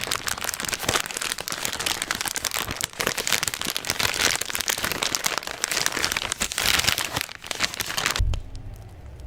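Close-up crinkling and rustling of wet wipes being handled and rubbed near the microphone, a dense run of small crackles. It cuts off abruptly a little after 8 seconds, leaving a faint low hum.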